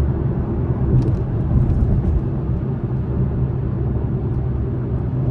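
2021 Acura TLX Type S's turbocharged 3.0-litre V6 pulling the car in sport mode, heard from inside the cabin as a low, even engine drone mixed with road noise.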